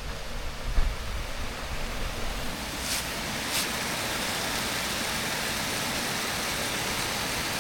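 Stream water rushing steadily over a stretch of rolling water, with two brief clicks about three seconds in.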